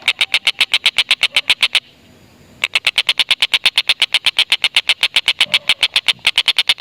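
Stork-billed kingfisher (tengkek buto) giving its long laughing chatter ('ngekek'), a rapid, even run of sharp notes at about nine a second. It breaks off for just under a second about two seconds in, then carries on.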